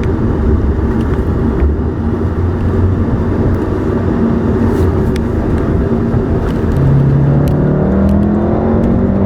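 Car engine and road noise heard from inside the cabin while driving. About seven seconds in, the engine note rises as the car accelerates.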